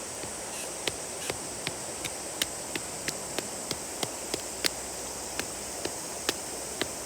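Wood campfire crackling, with sharp irregular pops about two to three times a second, over the steady rushing of a river.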